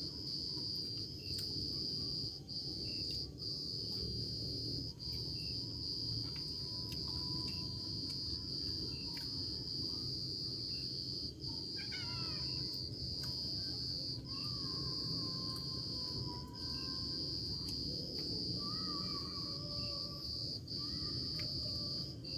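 Forest insects, crickets or cicadas, keep up a steady, high-pitched chorus with brief breaks every second or two. Faint whistling calls, a few of them gliding up and down, sound over it about halfway through and near the end.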